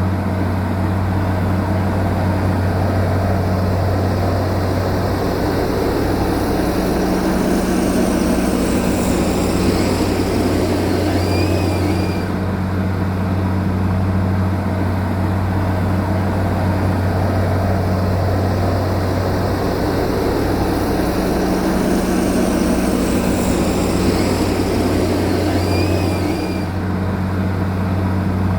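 Heavy diesel engine of earth-moving machinery running at a steady, low drone, with a noisy, grinding hiss over it that swells and eases; the same stretch of sound repeats about every fourteen seconds.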